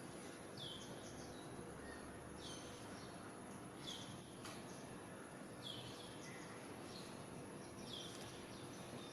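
A bird calling: faint short chirps that slide downward, repeating about every one and a half to two seconds over a steady hiss.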